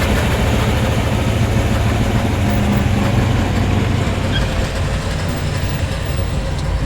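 Muscle car engine running at low speed with a steady deep tone as the car rolls slowly past, easing off a little in the last few seconds.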